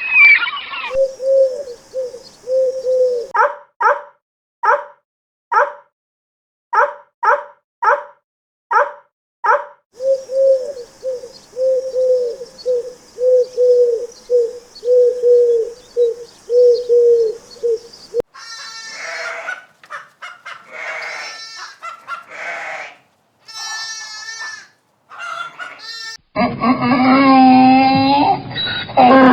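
Animal calls from a succession of different animals. First comes a long run of short calls repeated evenly, about one to two a second. Then come shorter, higher calls, and a louder call near the end.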